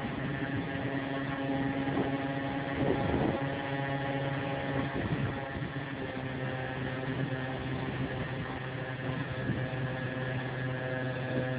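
RC model airplane's motor running with a steady, even drone.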